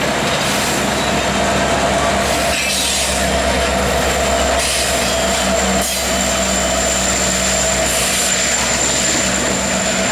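A freight train rolling steadily past, its cars' wheels running on the rails, with a steady high-pitched ring from the wheels over the rolling noise.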